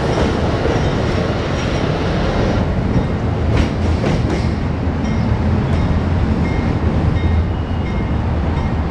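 Amtrak passenger train rolling past: a steady rumble of the cars, with wheels clicking over rail joints and a cluster of sharper clicks about three and a half seconds in.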